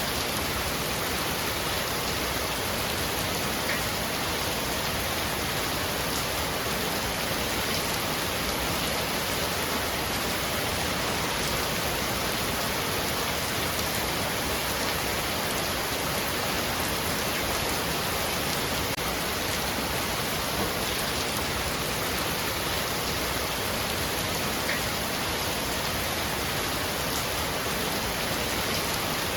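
Heavy rain falling steadily on a roof: an even, unbroken hiss with the odd single drop standing out.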